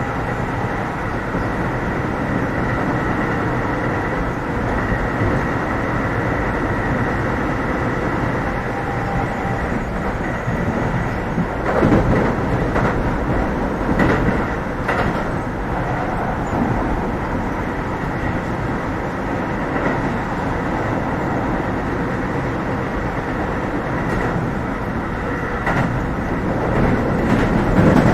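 On-board running sound of a Keio 7000 series commuter train travelling between stations: a steady rumble of wheels on rail, with a few louder knocks of the wheels over rail joints about twelve seconds in, again a couple of seconds later, and near the end.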